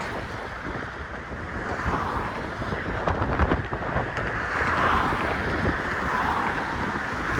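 Strong wind buffeting a phone's microphone that is half-covered with a sock: an uneven rumble and rush with gusts, rising a little about halfway through.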